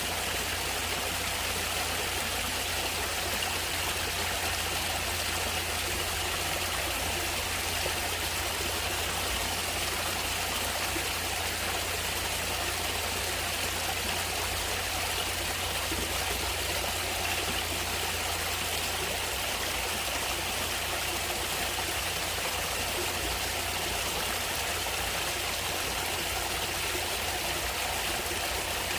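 Water flowing steadily in a stream, a constant rushing and trickling without breaks.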